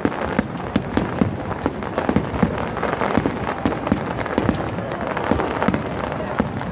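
Aerial firework shells bursting in quick succession, a dense run of bangs and crackles, several a second.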